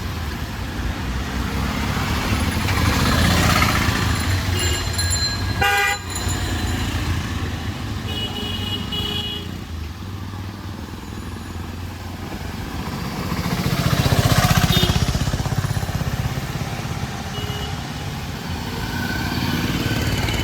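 Street traffic with motor vehicles passing, loudest about three seconds in and again about fourteen seconds in. Short horn toots sound about six seconds in and again around eight to nine seconds in.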